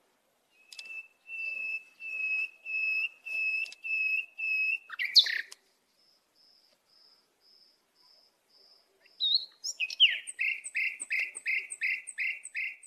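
Birdsong: a run of about six clear, steady whistled notes, each about half a second long. Then comes a faint run of short, higher notes, and near the end a quick series of down-slurred notes, about four a second.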